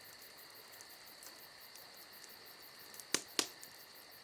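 Sirloin steak sizzling on a grill over a wood campfire: a steady, quiet high hiss, with fainter crackles. Two sharp pops, a fraction of a second apart, come about three seconds in.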